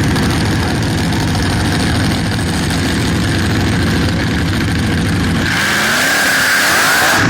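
Sprint boat racing engines running loud: a low rumble at first, then about five and a half seconds in a higher-pitched engine note with a hiss comes in, rising in pitch and growing louder.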